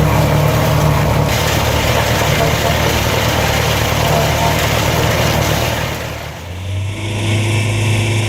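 A wood-peeling machine running under engine power, a loud steady mechanical noise. About six seconds in it drops briefly and gives way to a different, steadier engine hum.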